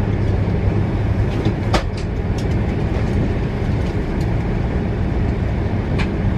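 Steady vehicle-interior rumble with a low hum, and a few light clicks over it.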